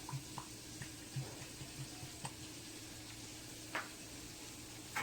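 Faint steady sizzle of chicken deep-frying in oil, with light clicks and taps scattered through and a sharper tap a little before the end.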